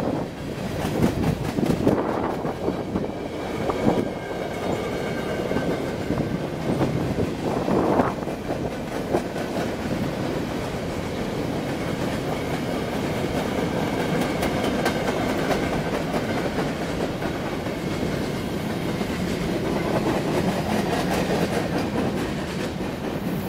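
Freight train of covered hopper cars rolling past, its wheels clacking over rail joints in quick irregular clicks during the first several seconds, over a continuous rolling rumble with a faint high wheel squeal in the middle.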